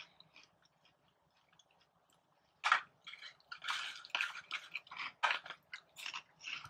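Crunchy cheese curls being bitten and chewed. It is quiet at first. About two and a half seconds in comes a sharp crunch from a bite, followed by a rapid, irregular run of crisp crunching chews.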